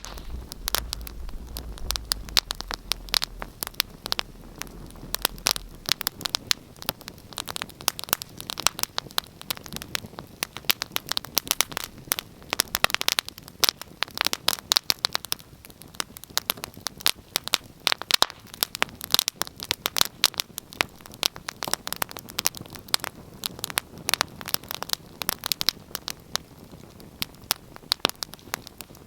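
Wood fire in a fireplace crackling steadily, with dense, irregular snaps and pops.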